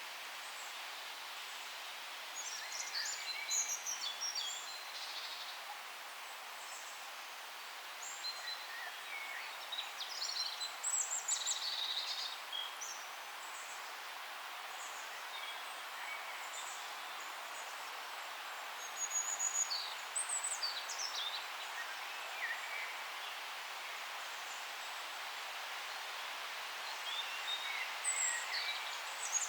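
Songbirds calling in forest ambience: short high chirps and trills come in four separate bouts a few seconds apart, over a steady background hiss.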